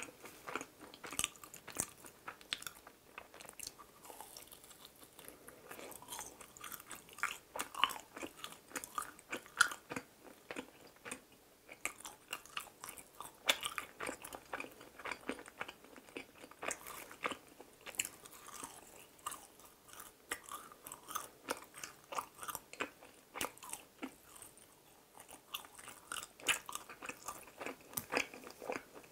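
Close-miked biting and chewing of mini glutinous-rice donuts (chapssal donuts): an irregular run of short, soft, sticky clicks and crunches.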